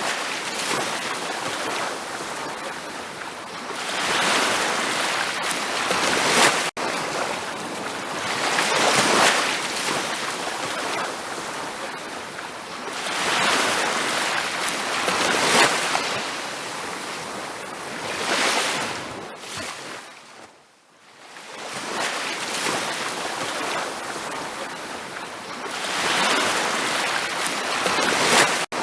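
Ocean waves washing onto a beach, the surf rising and falling in swells every two to three seconds, with a brief lull about two-thirds of the way through.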